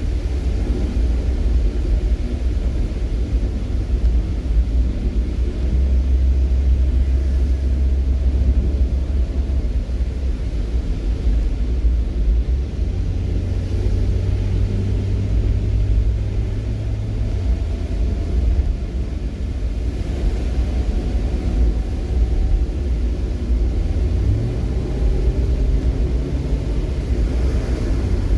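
Vehicle on the move: a steady low road rumble with an engine hum that shifts pitch a few times and rises briefly about three quarters of the way through.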